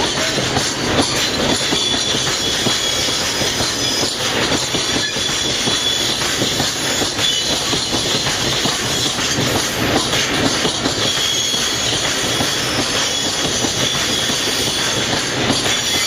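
A freight train's wagons rolling past, a steady clatter of wheels over rail joints with some high wheel squeal.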